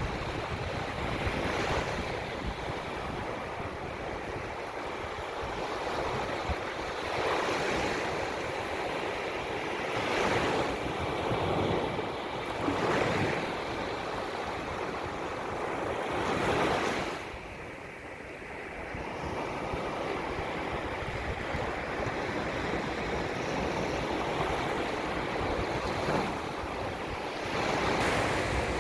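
Ocean waves washing in, each swell rising and falling every few seconds, with wind blowing across the microphone.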